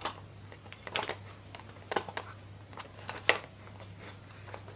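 Scattered light clicks and knocks of ceiling fan parts being handled during disassembly, about one a second, the sharpest about three seconds in.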